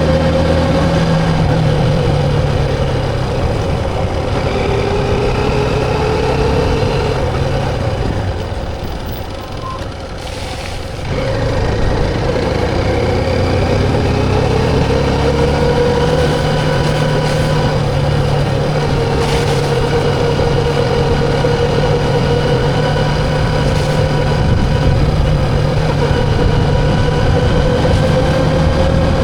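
Motorcycle engine running under way, its pitch slowly rising and falling with the throttle over a steady low rumble. It eases off briefly about ten seconds in, then picks up again.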